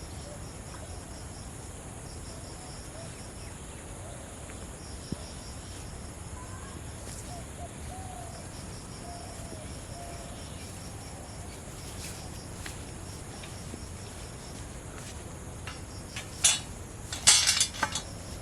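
Crickets and other insects chirping steadily in repeating pulsed trains, with faint wavering calls underneath. Near the end comes a short cluster of loud sharp crackling knocks.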